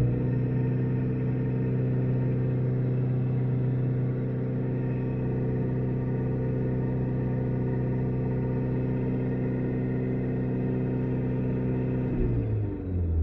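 Strange steady hum inside a car, one pitch with several overtones held for a long stretch, then sliding down in pitch near the end.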